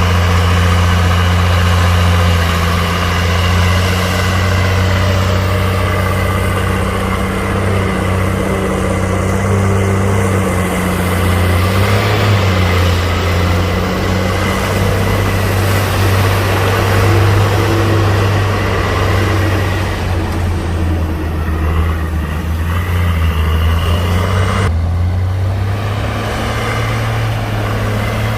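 Heavy diesel earthmoving machine engine running steadily at a low, even pitch. About 25 seconds in, its sound changes abruptly and becomes duller.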